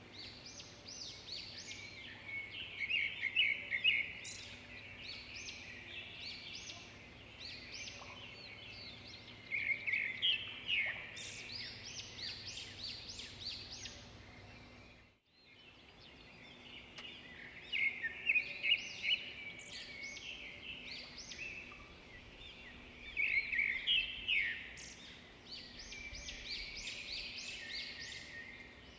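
Songbirds chirping and singing in quick runs of high notes that come in clusters every few seconds, over a faint steady background hiss. About halfway through, the sound drops out for a moment and then starts again.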